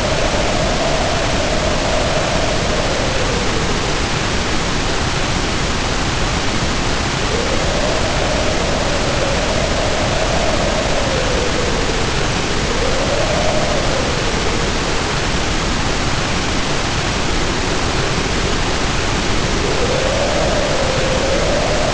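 Heavy rain pouring steadily, with wind howling over it: the howl swells and falls in pitch in slow gusts every few seconds.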